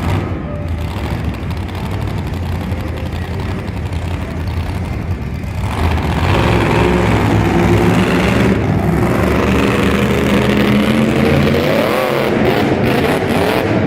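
Monster truck engine running and revving, getting louder about six seconds in.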